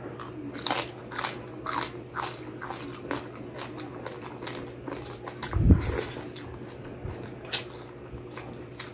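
Crunchy chewing of crispy pata skin, the deep-fried pork knuckle crackling breaking in a run of crisp bites about twice a second. A dull low thump comes about two-thirds of the way through.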